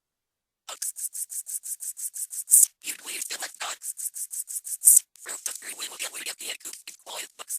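Rapid, evenly paced scratchy percussion, like a shaker or scraper, at about seven strokes a second, with two louder accents. It starts after a brief silence and forms a bare percussion break in an electronic music track.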